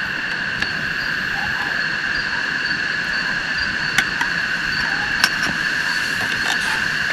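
A steady insect chorus holding a few fixed high pitches over an even background hiss, with a couple of sharp ticks about four and five seconds in.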